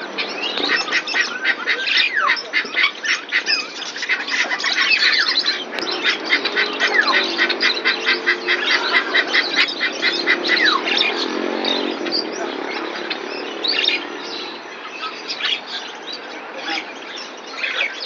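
Many caged birds chirping and calling at once: runs of rapid repeated chirps, about five a second, with sharp falling whistles mixed in.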